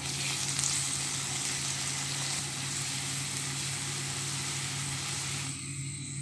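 Sliced onions, green chillies and ginger-garlic paste sizzling in hot oil in a karai as they are stirred, a steady frying hiss that dips briefly near the end.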